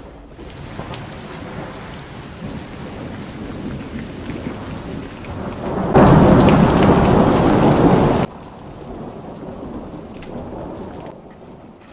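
Heavy rain pouring down, with rumbling thunder. About six seconds in it becomes much louder for a couple of seconds, then cuts off suddenly.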